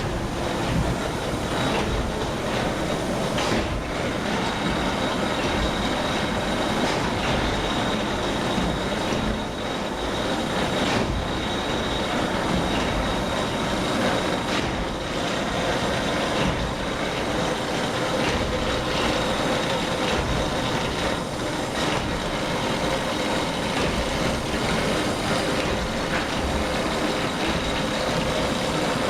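The steam engine and engine-room machinery of the whale catcher Southern Actor running under way: a loud, steady mechanical din with a thin high whine, and knocks and clatters at irregular intervals throughout.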